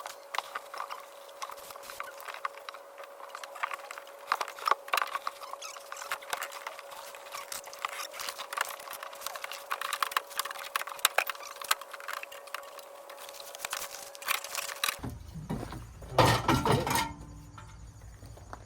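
Irregular light clicks and knocks of parts and tools being handled, over a steady faint hum. Near the end the background changes abruptly, and a loud rushing scrape lasts about a second.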